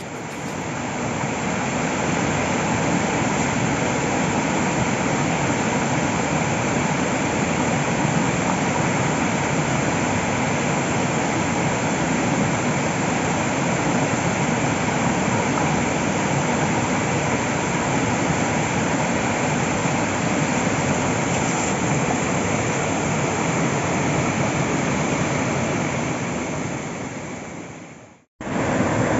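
Rushing water, a steady even noise that fades in at the start and drops out briefly near the end.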